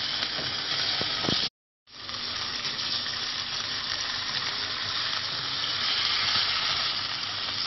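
Mutton liver pieces sizzling in hot oil in a pan as they are stirred, with a few light knocks in the first second and a half. The sound cuts out completely for a moment about a second and a half in, then the sizzling fades back in and carries on steadily.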